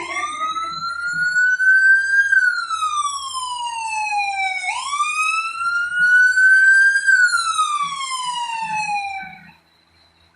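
Emergency vehicle siren on a slow wail, rising and falling in pitch twice before it cuts out near the end.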